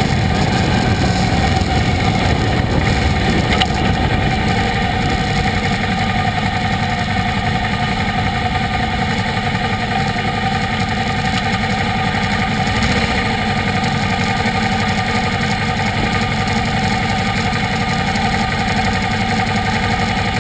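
Motorcycle running at a steady speed: an even engine note under a loud, constant rush of wind and road noise.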